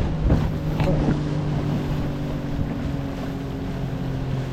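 Small boat's motor running at a steady pitch, with wind buffeting the microphone.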